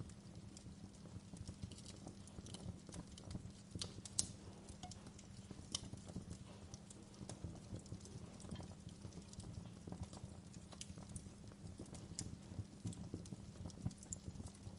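Wood fire in a fireplace burning, with irregular crackles and pops of the logs over a steady low rumble of the flames; a few sharper pops stand out.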